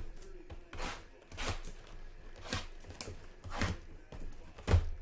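Trading-card boxes and their wrapping being handled and torn open: irregular sharp crinkles and taps about once a second, with a louder thud near the end.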